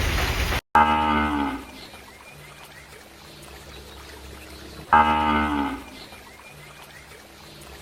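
A farm animal calling twice, two short loud calls about four seconds apart, each sagging slightly in pitch at the end.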